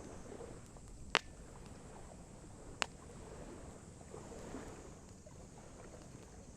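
Campfire of burning wood crackling: two sharp pops, about a second in and again near the three-second mark, over a faint steady hiss.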